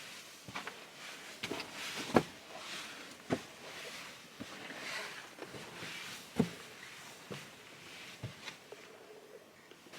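Footsteps of a person walking on a trail, irregular steps about once a second, with a soft hiss between them.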